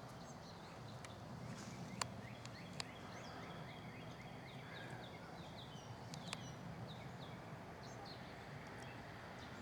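Several small songbirds chirping faintly in the background: many short, quick downward-slurred notes scattered throughout, over a faint steady outdoor hum. A few sharp clicks stand out, the loudest about two seconds in.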